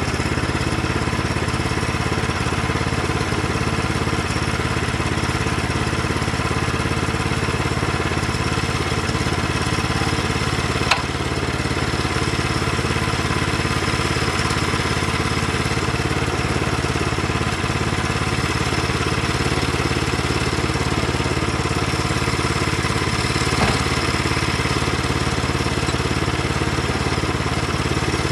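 An engine running at a steady, unchanging speed, with one sharp click about eleven seconds in.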